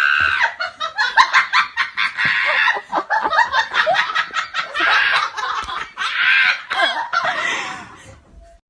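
Hearty laughter in rapid repeated bursts, fading out just before the end.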